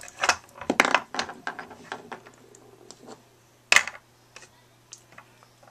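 Metal skateboard trucks and hardware being handled: a run of sharp metallic clinks and knocks, with one louder knock near the end.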